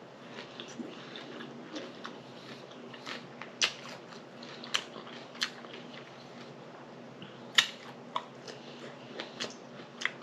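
Close-up chewing and lip smacking of a person eating fruit salad, with irregular sharp wet mouth clicks and a few louder smacks.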